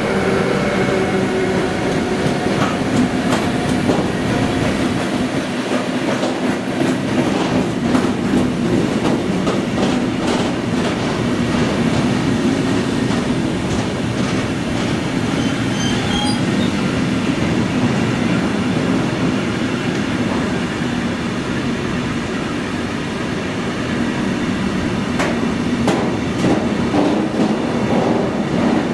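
Train rolling past on the tracks: steady wheel-on-rail noise with many short clicks as the wheels cross rail joints, keeping up without a break.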